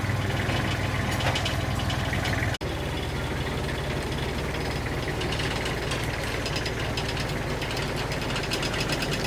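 An engine or motor running steadily with a low, rhythmic drone, broken by a very short gap about two and a half seconds in.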